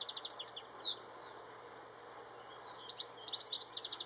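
European goldfinch singing: a rapid, twittering run of many quick high notes, a pause of about two seconds, then another burst of twittering near the end.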